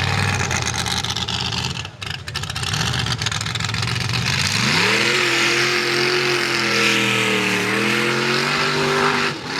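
Mega truck engine running, then revved hard about halfway through, its pitch climbing and held high at full throttle for several seconds before dropping near the end.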